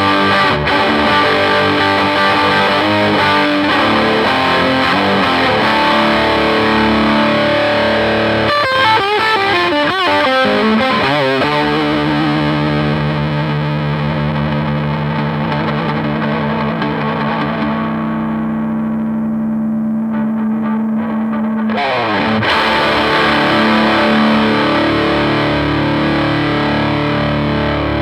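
Gibson Les Paul Studio electric guitar played through a Marshall JTM60 valve amplifier with distortion: chords and a quick run of notes, then a chord held for about ten seconds while its top end fades, then fresh chords again near the end.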